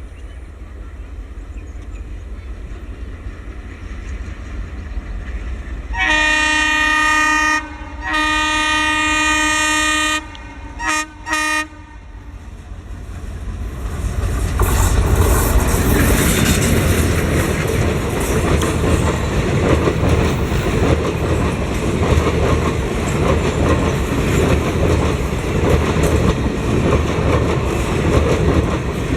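WDM3A diesel locomotive approaching with a low rumble, then sounding its multi-tone horn in two long blasts followed by two short ones. The noise of the train running on the rails then builds and stays loud, with wheel clatter, from about halfway through.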